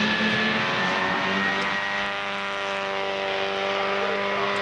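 Rally car engine running under steady load, its note sagging slightly in pitch over the first couple of seconds and then holding level.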